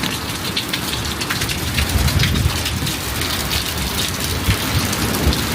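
Heavy rain drumming on an umbrella overhead: a dense hiss of pattering drops, with a low rumble rising about two seconds in.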